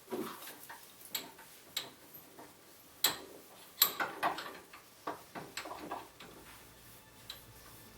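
Irregular sharp metal clicks and knocks from a rusty clamp being handled, its parts clinking together, the loudest strikes about three and four seconds in.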